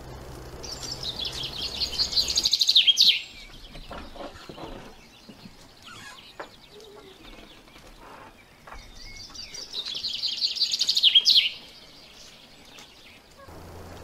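A songbird singing two songs about six seconds apart, each a rapid trill of high notes growing louder over about two and a half seconds and ending in a sharp flourish.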